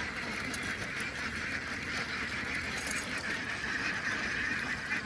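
A large flock of domestic ducks quacking all at once, a dense, steady din with no let-up.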